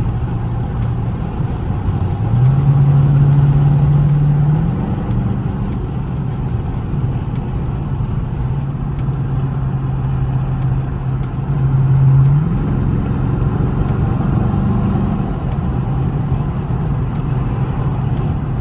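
Dodge Charger R/T's 5.7-litre Hemi V8 cruising, its exhaust loud and open from a mid muffler and resonator delete. The engine note steps up in pitch and gets louder as the car accelerates, once about two seconds in and again about twelve seconds in, then drops back to a steady cruise.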